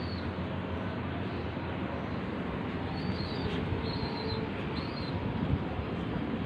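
Young pigeons giving short, high squeaky begging calls, a few in a row about three to five seconds in, over a steady rushing background noise.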